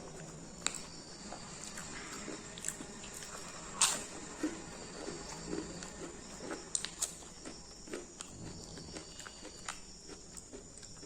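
A person chewing and crunching food close to the microphone, with irregular crisp bites and chewing noises, the loudest crunch about four seconds in. A steady high-pitched hum runs underneath.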